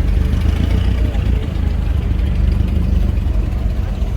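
Engine of an antique car running at low speed as it drives past, a steady low rumble.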